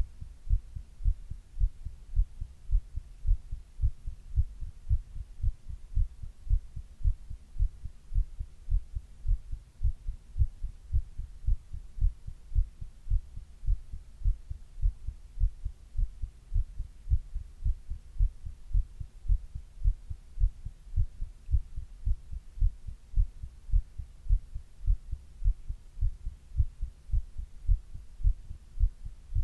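A person's own heartbeat, heard as a steady, even rhythm of low lub-dub thumps.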